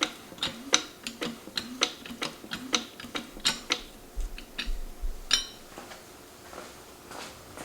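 Sharp metallic knocks from an FA20 boxer engine's pistons, coming unevenly two to three a second and stopping about five and a half seconds in. They are a sign of the pistons sticking at the top of the cylinder walls.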